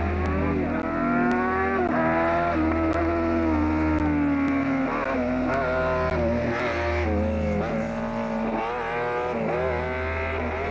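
Rally car engine revving hard on a timed stage. Its pitch climbs and then drops sharply about two seconds in, and rises and falls again several times as the car shifts and lifts off.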